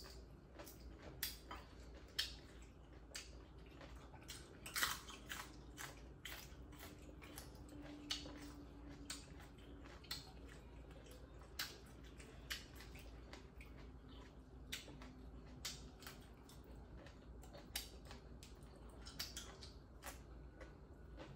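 People chewing and biting food close to the microphone: soft, irregular mouth clicks and lip smacks, over a faint low hum.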